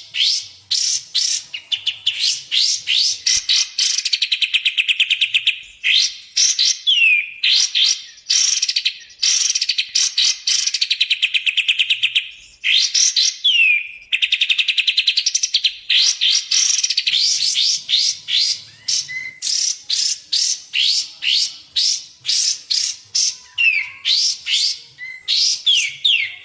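Recorded song of kapas tembak and cucak jenggot songbirds, played as masteran for training cage birds: a loud, fast run of sharp sweeping whistled notes, several a second, broken by stretches of rapid buzzy trills ending in a quick downslur.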